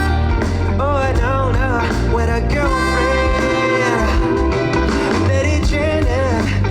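Live band music: a melodic lead line that bends and slides in pitch over a steady bass and beat.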